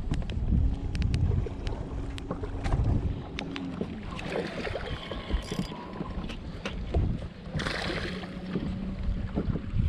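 Wind rumbling on the microphone aboard a small fishing boat, with scattered light knocks and clicks. A low steady hum comes in twice, near the start and again near the end.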